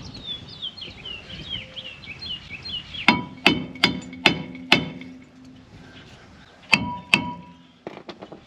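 A hammer striking metal: five quick ringing blows, then two more a couple of seconds later.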